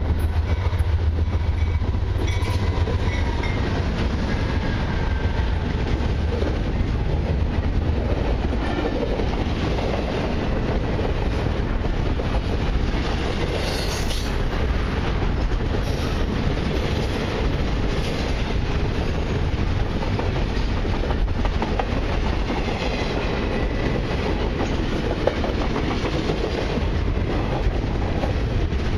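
A long CN intermodal freight train passing close by. The diesel locomotives rumble past in the first few seconds, then double-stacked container well cars roll by with a steady clatter of wheels over the rail.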